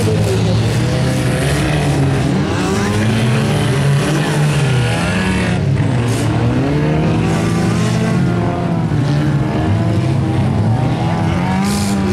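Engines of several old wreck-race cars running on a dirt track, revving up and down so their pitches rise, fall and overlap.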